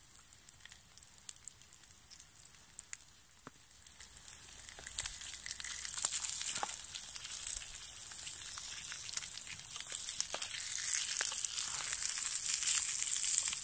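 Slices of Spam frying in a small pan: a few faint crackles at first, then sizzling that starts about four seconds in and grows steadily louder as the slices are turned.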